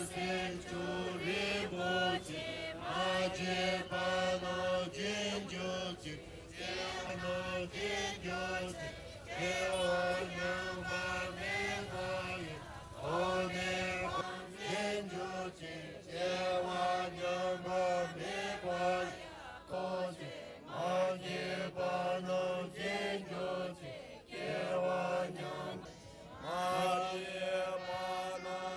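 A group of Tibetan marchers chanting together in unison: short sung phrases repeated over and over, with brief breaks between them.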